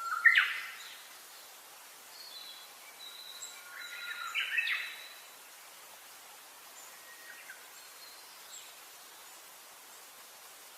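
Songbirds calling over a faint steady hiss: a loud burst of song at the start, another run of calls a few seconds in, then only a few faint chirps.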